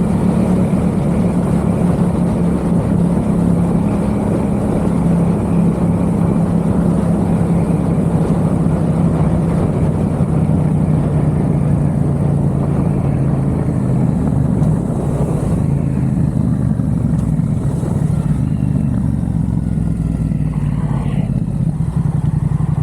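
Yamaha XSR700's parallel-twin engine running through a MiVV aftermarket exhaust while the bike is ridden at a steady pace, its note easing slightly lower partway through, over a constant rush of wind and road noise.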